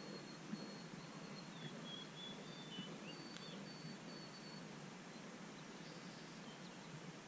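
Faint, thin, high whistled songbird notes, several short held notes with a few brief downward slurs, over a steady background hiss.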